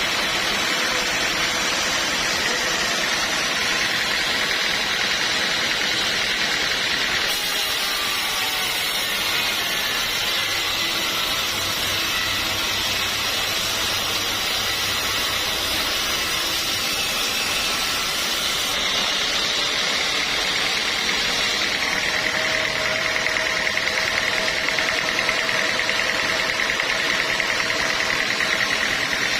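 Sawmill machinery running steadily: a noisy mechanical drone with a steady high-pitched tone over it.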